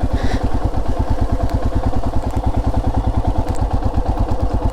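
Royal Enfield Himalayan's single-cylinder engine running at low revs with a steady, even beat of firing pulses, about ten a second.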